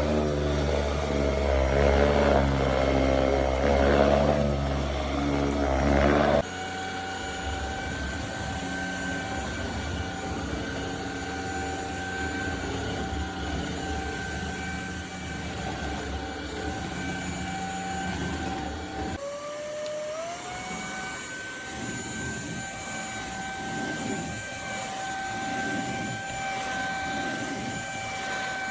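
ElecKeys K10 cordless stick vacuum's motor running. It is louder and deeper for about the first six seconds, then cuts abruptly to a quieter steady high whine. About two-thirds of the way through, the motor spins up again, its whine rising quickly and then holding steady.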